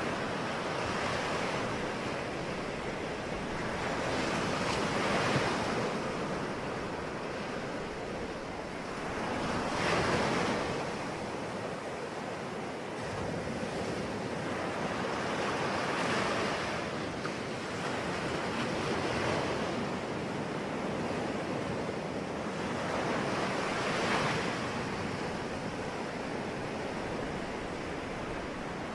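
Sea waves breaking and washing on the shore, the surf swelling every few seconds over a steady rush of water.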